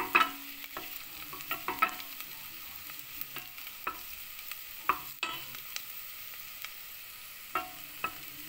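Sliced onion, garlic and ginger sizzling as they fry in a stainless steel pot, stirred with a wooden spatula that knocks and scrapes against the pot at irregular moments. The garlic is being toasted.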